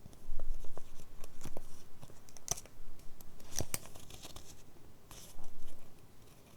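Paper pages of a handmade junk journal being handled and turned: irregular rustling with crisp snaps of paper, the two sharpest a little over a second apart near the middle.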